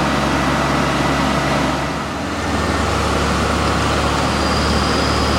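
Heavy diesel engines working as a truck mired in mud is towed out by an excavator. There is a steady loud run, with the engine note dipping and changing about two seconds in.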